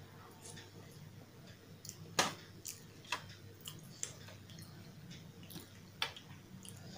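Close-miked eating sounds: soft, wet chewing of potato curry with mouth clicks, and a plastic spoon scraping and tapping on a stainless steel plate. Sharp clicks come irregularly, the loudest about two seconds in, over a steady low hum.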